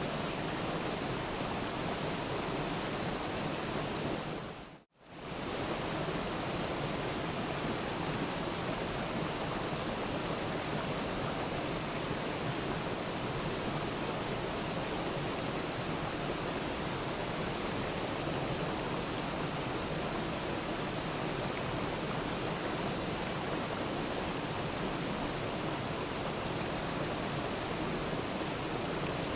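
Waterfall: a steady, even rush of falling water. About five seconds in it fades briefly almost to silence and straight back in.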